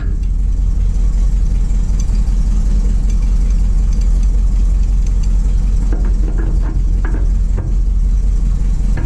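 Ford F700 truck's 370 V8 with a four-barrel carburetor idling steadily, its exhaust note roughened by an exhaust manifold leak.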